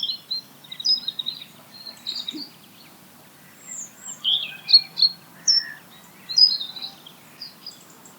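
Several small songbirds singing and calling over one another: quick high chirps, short whistled notes and a few brief trills.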